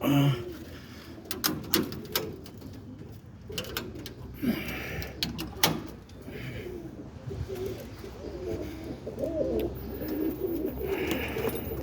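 Roller pigeons cooing in a loft, low wavering coos throughout, with scattered sharp clicks and knocks.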